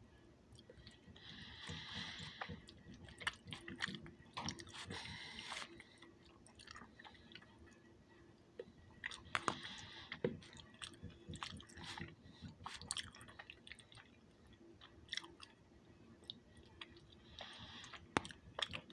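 Close-up chewing of macaroni and cheese: wet smacking mouth sounds with many small irregular clicks, and a short hiss about three times.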